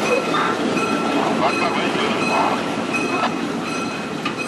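Passenger train cars rolling slowly past on curved track: a steady wheel-on-rail rumble with a thin, high squeal from the wheels coming and going and a few sharp knocks.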